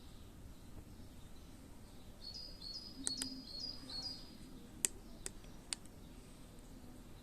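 A small bird gives a quick run of about six high, identical chirps, followed by a few sharp clicks, the loudest about five seconds in.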